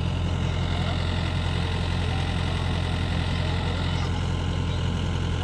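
Diesel engine of a heavy farm machine running steadily at an even speed, a constant low hum that does not rise or fall.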